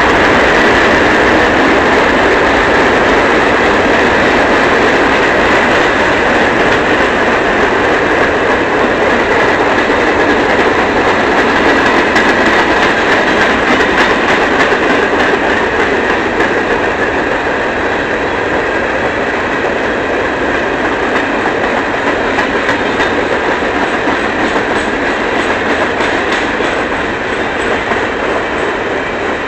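Empty coal train's railcars rolling past: a steady rumble and clatter of steel wheels on the rails, easing off a little toward the end.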